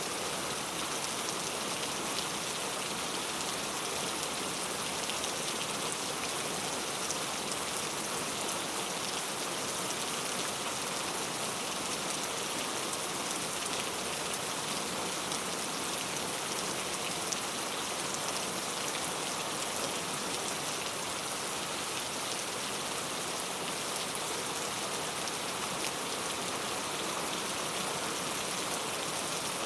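Heavy rain falling steadily on hard street surfaces: a dense, even hiss of countless drops with fine patter, unchanging throughout.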